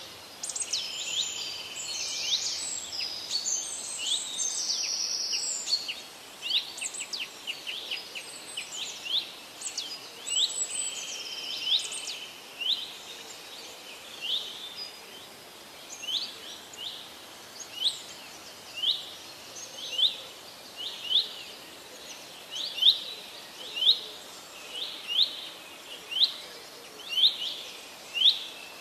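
Birds chirping: many short, high chirps crowding over one another at first, then settling after about half way into a regular run of single sharp chirps, roughly one a second.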